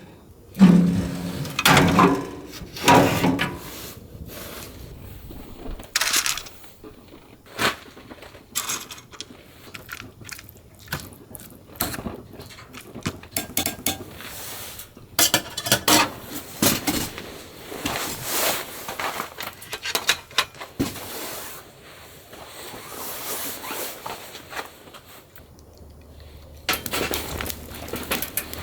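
Dishes and utensils being handled: a run of separate clinks, taps and knocks, with a short pitched sound in the first few seconds.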